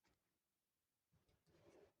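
Near silence for about a second, then faint, soft ASMR trigger sounds that swell briefly near the end.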